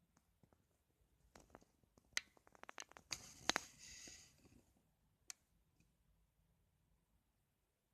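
A quick run of sharp plastic clicks and taps, with a brief high whir in the middle and one last click, from a small radio-controlled toy truck being handled.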